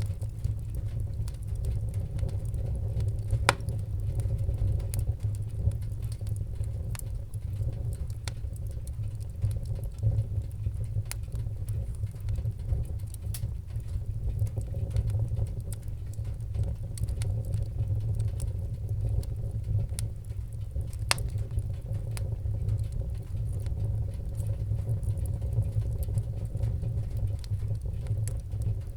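Wood fire in a fireplace crackling: a steady low rumble of flames under frequent small sharp pops, with two louder snaps, one about three and a half seconds in and one about twenty-one seconds in.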